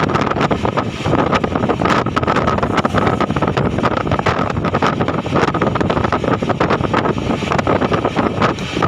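Passenger train coach running along the track: a steady rumble with constant rattling of wheels and bodywork, and wind buffeting the microphone.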